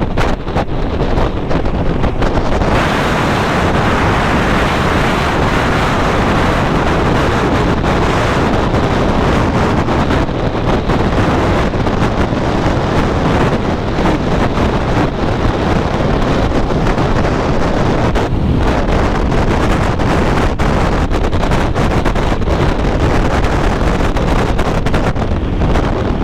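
Strong wind rushing over the microphone of a motorcyclist's helmet at speed, a loud steady roar that buries the engine and road noise.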